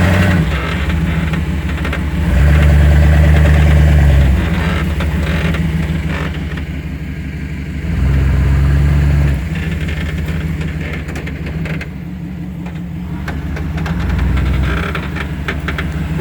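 Two-wheel-drive Chevy pickup's engine idling and picking up in three short bursts of gentle throttle, the first the longest and loudest, as the truck is eased through a turnaround on wet ground without spinning the wheels.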